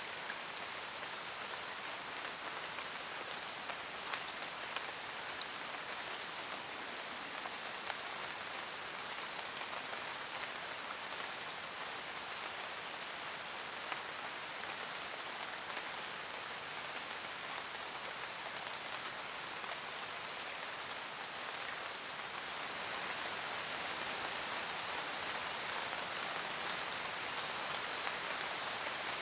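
Steady rain falling in a forest, a dense hiss with the sharp ticks of single drops landing, growing slightly louder about three quarters of the way through.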